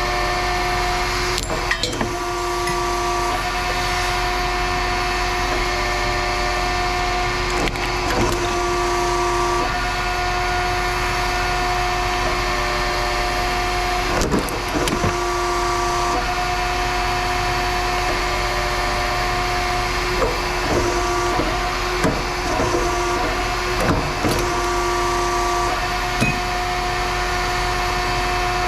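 A steady machine hum holding a constant pitch, with scattered short knocks and clanks, several in quick succession about three-quarters of the way through.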